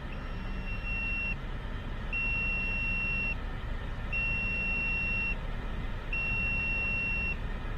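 An electronic warning beeper sounds four long, even high beeps about two seconds apart. Under it is the low steady rumble of an idling truck engine.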